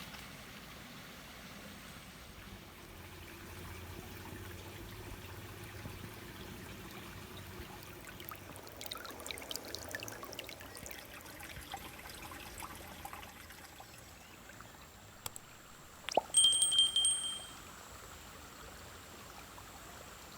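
Water trickling steadily, with scattered faint ticks. About 16 seconds in comes a sharp click, then a loud high steady tone lasting about a second.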